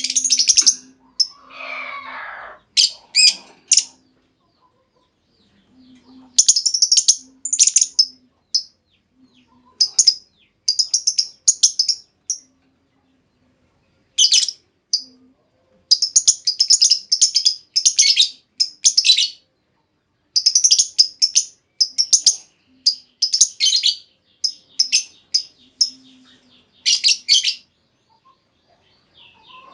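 Female lovebird calling in rapid clusters of shrill, high chirps separated by short pauses, with a lower, rougher call about two seconds in.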